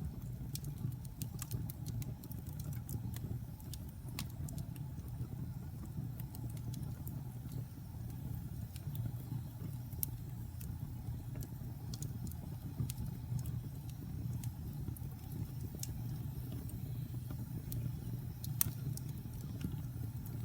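Wood fire burning in a fireplace: a steady low roar of the flames with scattered, irregular crackles and pops from the burning wood, a sharper pop near the end.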